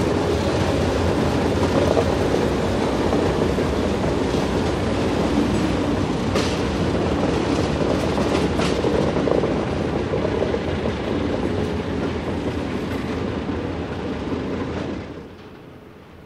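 Ballast train rolling past close at low speed, its Alco diesel locomotive moving off and its hopper wagons following with the rumble of steel wheels and sharp clicks over rail joints. About 15 s in the sound drops to a much quieter, more distant rumble of the wagons.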